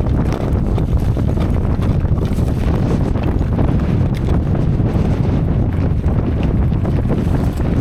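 Strong wind buffeting the microphone with a steady low rumble, mixed with many small rattles and clicks from a mountain bike riding down a rough, stony track.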